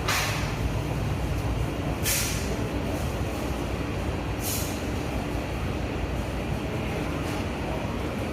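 Heat-treatment furnace line for stainless steel cutlery running with a steady low rumble, broken by short hisses right at the start, about two seconds in and about four and a half seconds in.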